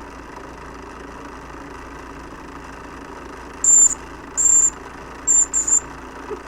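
Small live steam stationary engines running steadily, with four short high-pitched toots of a steam whistle a little over halfway through; the toots are the loudest sounds.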